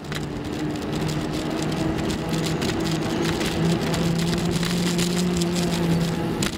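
Bicycle riding along: steady rolling noise with many small clicks and rattles, and a constant low hum underneath.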